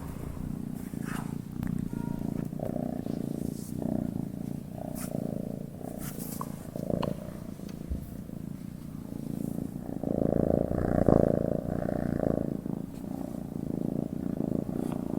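Domestic cat purring steadily as it sleeps, a gentle purr that swells louder for a couple of seconds about ten seconds in.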